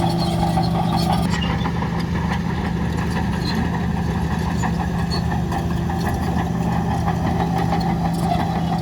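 Heavy diesel engine of earth-moving machinery running steadily, its mid-range note easing off about a second in and coming back near the end.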